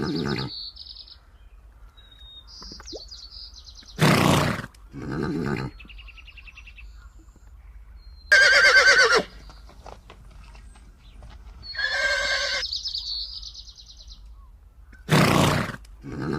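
Animal calls: pairs of loud, breathy calls repeating every five or six seconds, a loud quavering call that suits a horse's whinny about halfway through, and short high bird chirps in between.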